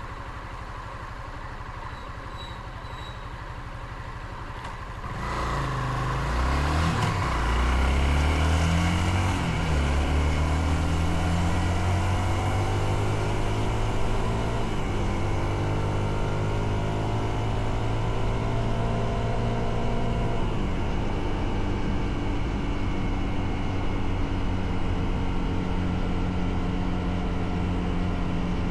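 Motorcycle engine ticking over, then about five seconds in pulling away: the revs climb and drop through several gear changes, then rise slowly with wind noise as the bike gathers speed, with another shift about twenty seconds in.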